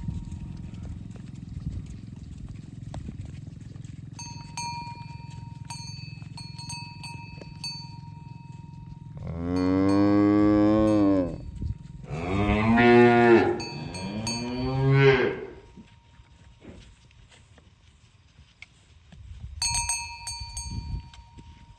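A cow mooing twice, two long moos starting about nine and twelve seconds in. A cowbell clanks now and then in between.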